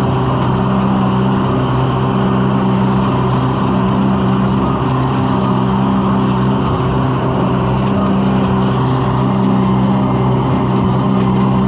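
Tractor engine running steadily at working speed, driving a shredder that is cutting down growth.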